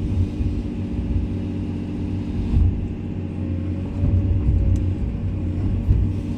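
Komatsu excavator's diesel engine running steadily with a low rumble.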